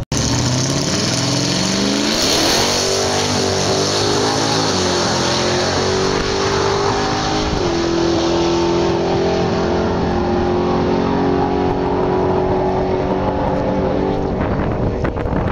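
2009 Mitsubishi Lancer Ralliart's turbocharged 2.0-litre four-cylinder launching and accelerating hard down a quarter-mile drag strip. Its pitch climbs and drops back at each of several upshifts.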